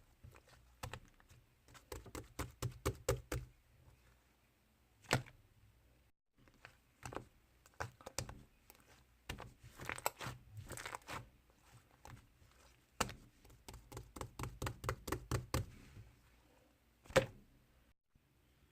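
Irregular light tapping and knocking, in quick runs of several taps separated by pauses, with two single louder knocks.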